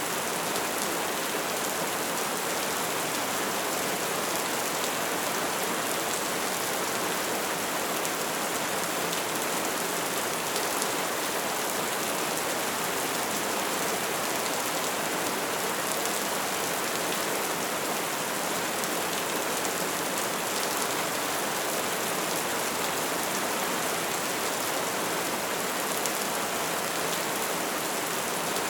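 Open wood fire burning with a steady crackle, many small pops over a constant rushing noise.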